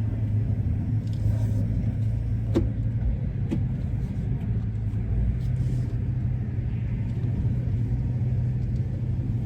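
Ford E-350 van's engine running at a steady low hum, with two short clicks about two and a half and three and a half seconds in.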